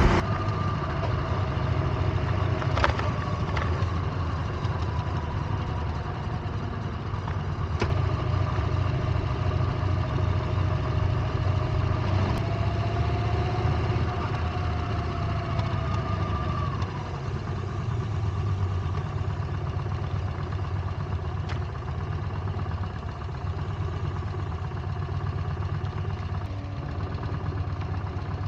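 Yamaha Bolt's air-cooled V-twin motorcycle engine running steadily at idle, with a few light clicks now and then.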